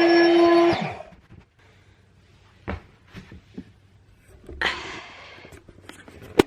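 Electric air-mattress pump running with a steady whine, then switched off about a second in, its pitch dropping as it winds down; afterwards a few soft knocks and rustles, and a sharp click near the end.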